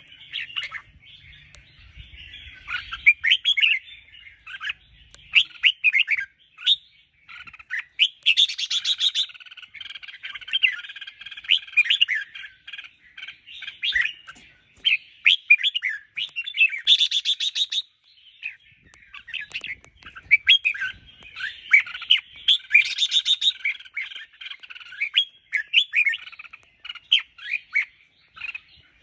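Red-whiskered bulbuls singing: a dense run of quick, repeated chirping phrases with barely a pause, broken three times by a short, harsher, buzzier note.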